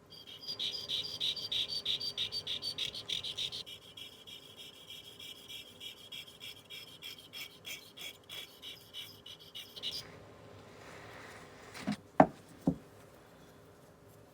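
Steel Barnhardt curette being stroked over a water-wetted sharpening stone: a quick rhythmic scraping, about four strokes a second, louder at first and softer from about four seconds in, stopping around ten seconds. Two sharp knocks follow a couple of seconds later.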